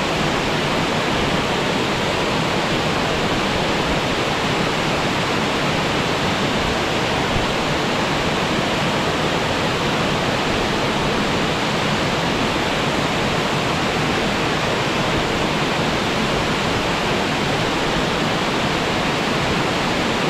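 Waterfall: water falling and splashing in a loud, steady roar of noise that does not change.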